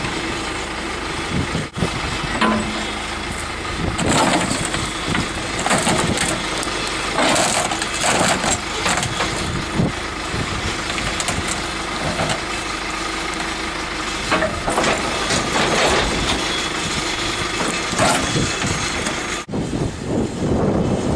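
John Deere backhoe's diesel engine running steadily while its bucket crushes a 1992 Honda Civic's body, with repeated crunches and bangs of sheet metal throughout.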